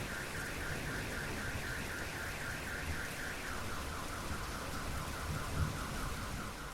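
Steady rain falling, with an electronic alarm warbling in a fast repeating pattern of about four chirps a second that shifts to a lower pitch about halfway through.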